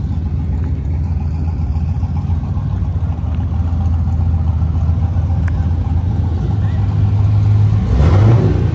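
Car engine rumbling steadily, growing louder, then revved near the end.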